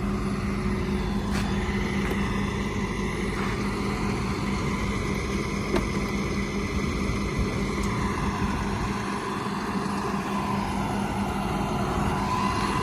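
Motor vehicle engine running steadily with a constant low hum, a higher drone dipping in pitch and rising again near the end.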